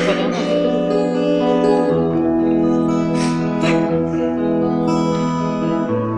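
Guitar music with held chords, no singing. The chord changes about two seconds in and again near the end, with a few sharp strokes along the way.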